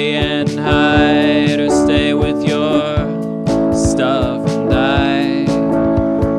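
Band music without lyrics: strummed acoustic guitar chords over a steady drum beat, with a gliding melodic lead line on top.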